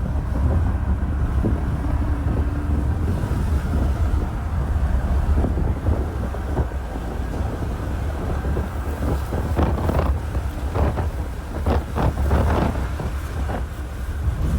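Strong wind buffeting the microphone, heard as a steady low rumble. Several sharper gusts hit in the later part.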